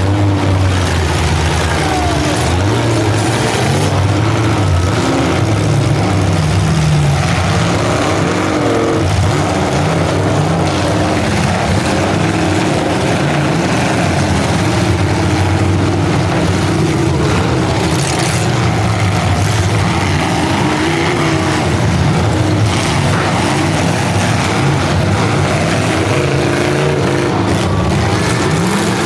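Engines of several full-size demolition derby cars revving up and down at once, their pitches rising and falling over each other in a steady din.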